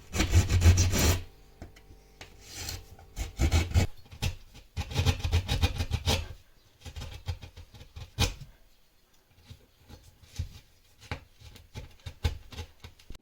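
Hand saw cutting an opening through plasterboard, heard as loud rasping in the first second, then two more stretches of quick rasping strokes. In the second half there are only scattered light clicks and knocks.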